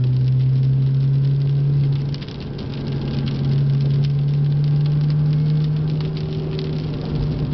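Mini Cooper S R53's supercharged 1.6-litre four-cylinder engine heard from inside the cabin, pulling at steady revs on track. About two seconds in the engine note drops briefly, then picks up again at a slightly higher pitch.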